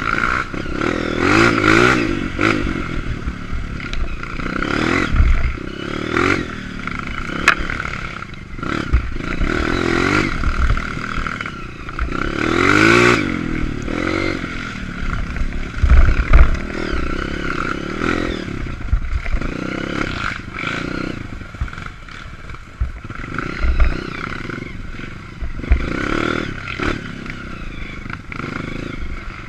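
Honda CRF230 trail bike's single-cylinder four-stroke engine revving up and falling back again and again while riding a rough trail, with knocks and rattles from the bike over bumps.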